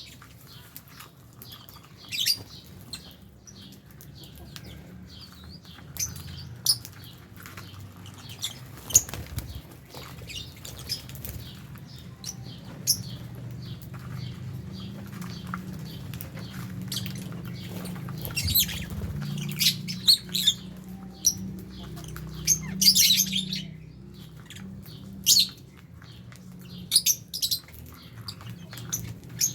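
Lovebirds in an aviary chirping: many short, sharp high calls scattered irregularly, busiest a little past two-thirds of the way in, over a steady low hum.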